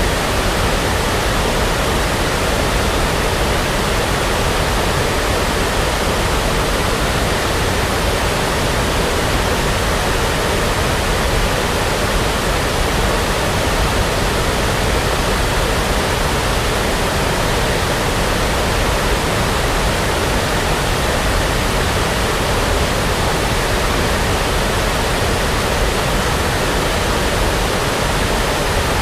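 Steady brown noise: an even, unbroken rushing hiss with no changes, a little heavier at the low end.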